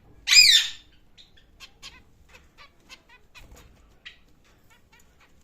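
Pet birds calling: one loud, harsh squawk with a rising-then-falling pitch, followed by many short, faint chirps.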